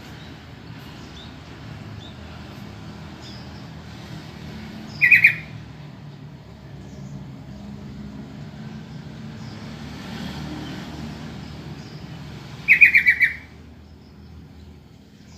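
Yellow-vented bulbul calling: two short bursts of quick chattering notes, about eight seconds apart, over a steady low rumble.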